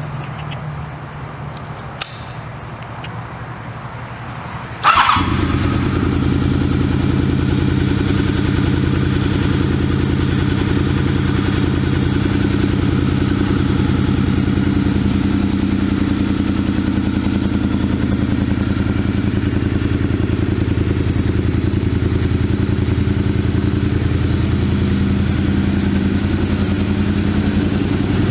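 Honda VFR750F's 748 cc V4 engine starting: a click about two seconds in, then the engine catches with a burst about five seconds in. It settles into a steady idle.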